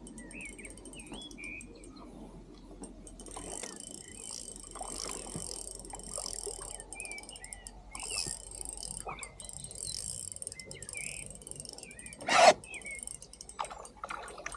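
Small birds chirping in short, scattered, bending calls over a faint high hiss, with a single sharp knock about twelve seconds in, louder than everything else.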